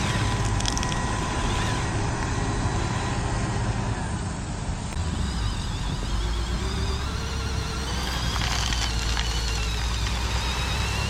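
Electric motors and gearboxes of radio-controlled construction models running, a steady whir. A low drone drops in pitch about four seconds in, and a wavering high whine joins it from about seven seconds.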